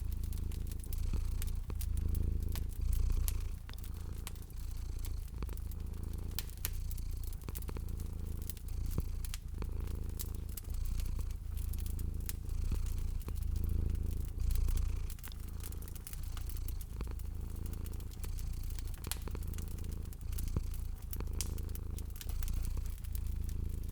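A cat purring, a low rumble that swells and fades in a regular rhythm, over the sharp pops and crackles of a fireplace fire.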